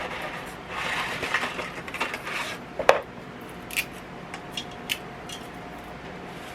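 Cooking utensils working in a pot: about two seconds of scratchy rattling, one sharp loud clink about three seconds in, then several light clicks.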